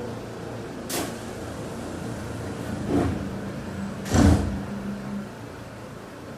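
Passenger doors of a Seibu New 2000 series train closing: a short sharp hiss about a second in, then the doors sliding and thudding shut just after four seconds, the loudest sound here, with a steady hum under it.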